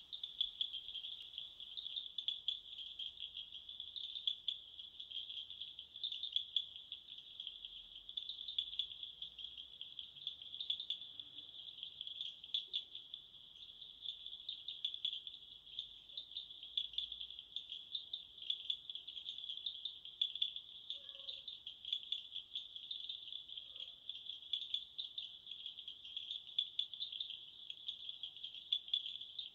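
Crickets calling at night in a dense, unbroken chorus: a steady high trill that flickers rapidly without pause.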